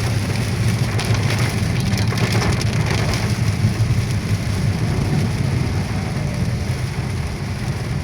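Rain hitting a car's roof and windshield, heard from inside the car, over the steady low rumble of the car on the road.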